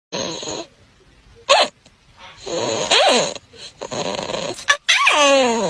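An animal giving a series of short pitched calls with pauses between them. Near the end comes a longer call that slides down in pitch with a wavering tone.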